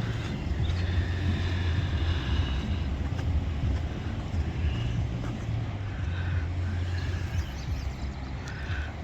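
Wind on the microphone: a steady low rumble that never lets up, with faint higher sounds from the shore over it.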